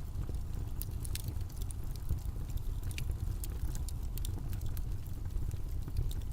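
Steady low, rumbling background noise, with scattered faint clicks and ticks over it.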